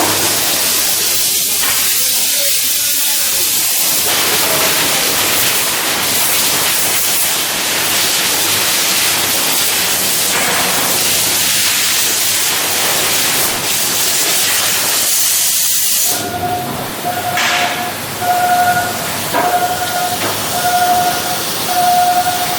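A loud, steady hiss of shipyard work that stops abruptly about three-quarters of the way through. It is followed by a repeated electronic beeping tone.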